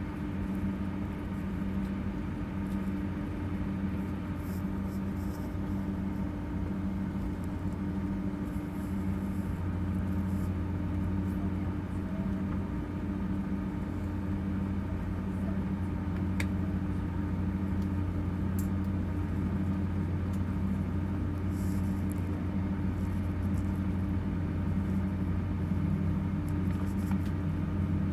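Steady low drone and hum inside an airliner cabin, with one tone of the hum pulsing slowly and regularly. A few brief faint hisses come and go over it.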